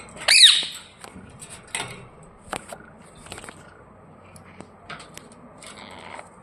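A pet parrot gives one short, loud screech about half a second in, followed by scattered light clicks and scratches.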